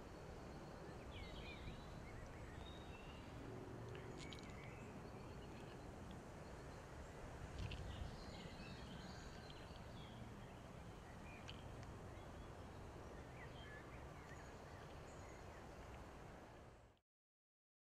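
Faint birdsong: scattered short chirps and calls over a steady low background rumble, cutting off suddenly near the end.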